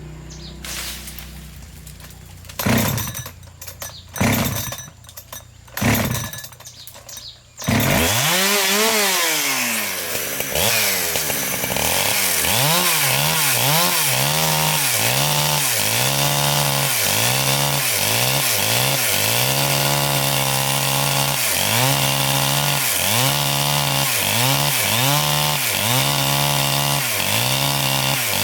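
A few short loud bursts, then a two-stroke chainsaw engine starts about eight seconds in and runs while cutting wood, its pitch dipping and rising about once a second.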